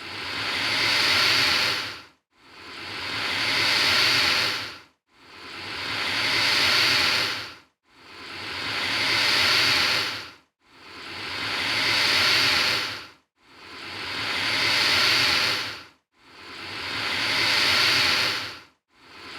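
Alligator hissing, a breathy hiss that swells and then cuts off sharply, repeated over and over about every three seconds with a short silence between hisses.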